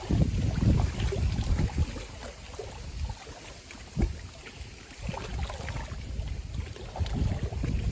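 Wind-driven waves splashing and lapping against the lakeshore in strong typhoon wind, with gusts buffeting the microphone in irregular low rumbles.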